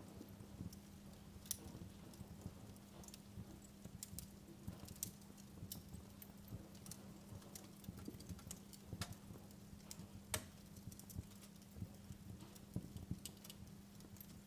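Fireplace wood fire crackling: irregular sharp pops and snaps over a low, steady hum, with one louder pop about ten seconds in.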